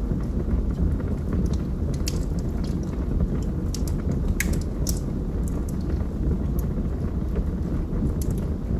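Log fire burning in a fireplace: a steady low rush of flames with irregular sharp crackles and pops from the burning logs.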